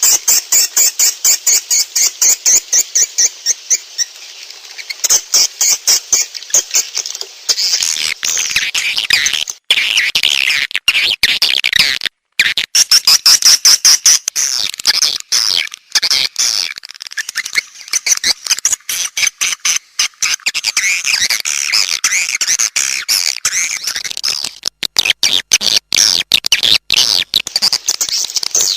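Swiftlet calling-sound recording: edible-nest swiftlets' high chirps and twitters, made to lure swiftlets into a swiftlet house. It starts as an even train of short pulses, about three to four a second, and after roughly seven seconds turns into denser overlapping chirping.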